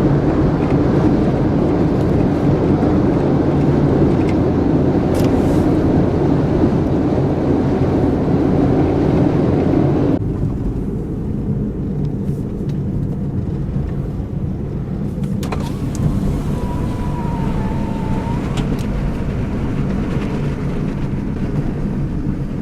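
Car driving: steady engine and road noise. About ten seconds in the sound changes abruptly and becomes duller.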